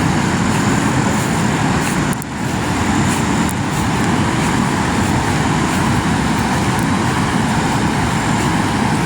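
Waterfall in heavy flow: fast water rushing and crashing in a loud, steady wash of noise, with a brief dip about two seconds in.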